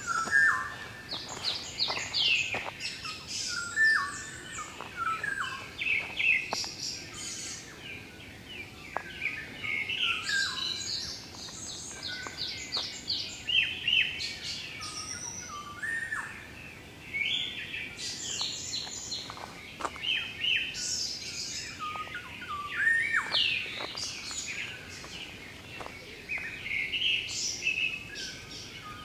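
Several wild birds singing and calling at once: many overlapping short chirps, trills and whistled notes, high-pitched and continuous.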